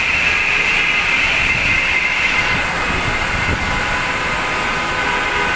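Heavy rain falling in a loud, steady downpour.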